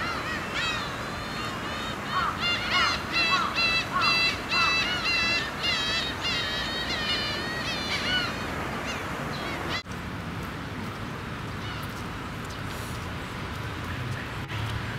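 Birds calling in a chattering flock, many overlapping calls that swoop up and down. The calls stop abruptly about ten seconds in, leaving a steady outdoor background hum.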